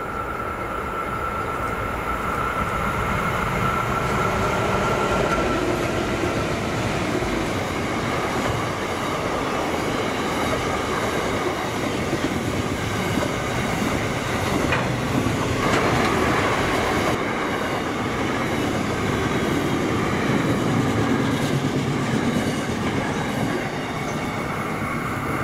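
Freight train rolling past with a steady, loud, continuous running noise of wagons on the rails, and a high steady tone in the first six seconds.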